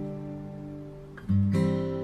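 Background music on acoustic guitar: slow chords left to ring and fade, with a fresh chord struck about a second and a half in.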